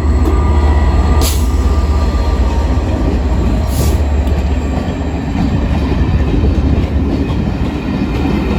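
A Class 67 diesel locomotive and its Pullman carriages passing close by: a deep, steady engine rumble with a continuous roll of wheels on rail, and two sharp knocks from the wheels about a second and four seconds in.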